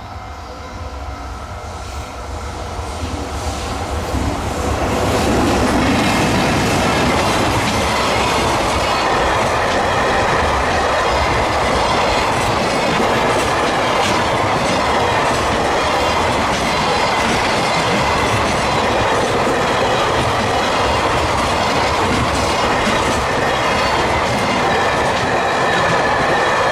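Freight train hauled by an EH500 electric locomotive passing at speed. The noise builds over the first five seconds as it arrives, then holds as a steady rumble with the clatter of the wagons' wheels over the rail joints.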